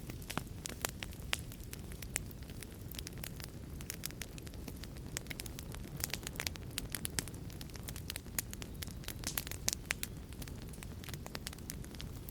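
Wood fire burning in a fireplace: a steady low rumble of flames with frequent sharp, irregular crackles and pops, thickest about nine seconds in.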